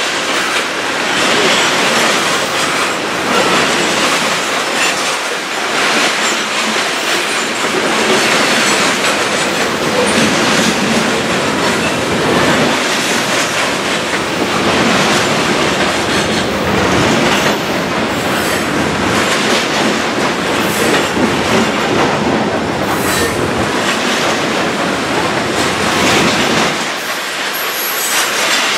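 Covered hopper cars of a long freight grain train rolling past close by: a steady loud rumble of steel wheels on rail, with repeated clacking as the wheels cross rail joints and a few brief high wheel squeals in the second half.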